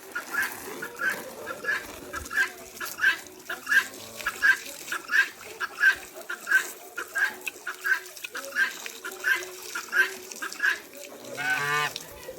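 Farm fowl calling in a steady repeated series, about two calls a second. Near the end a different, longer call rises in pitch.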